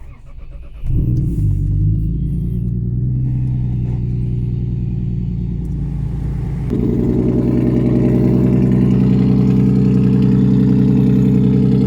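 Lexus GS300 being started: the starter cranks for about a second before the engine catches, then it idles with a loud exhaust note. About seven seconds in the idle steps up to a louder, higher note and holds there.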